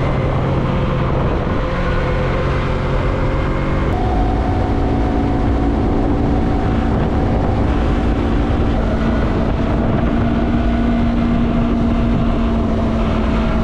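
Yamaha MT-03 parallel-twin motorcycle engine running steadily at road speed, with wind rush on the bike-mounted microphone. The engine note steps up about four seconds in and then holds.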